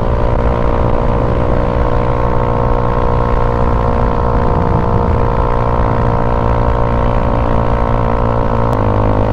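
Motorcycle engine running steadily under way, heard from the rider's position; its note steps down near the end.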